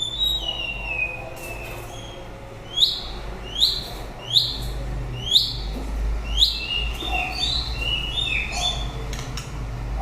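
White-rumped shama singing: a falling whistled phrase, then five sharp down-slurred notes about a second apart, then a quick run of stepped whistles, over a steady low hum.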